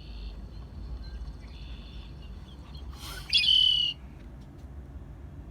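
Red-winged blackbird song: one phrase about three seconds in, short opening notes followed by a buzzy trill, with fainter notes earlier on.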